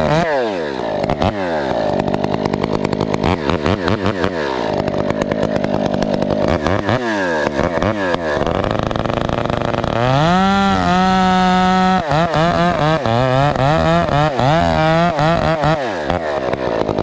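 Husqvarna 372XP two-stroke chainsaw running loud. It is let off and revved up again several times, then held at full throttle, and in the last several seconds its pitch wavers up and down as it bogs and recovers under load in the cut.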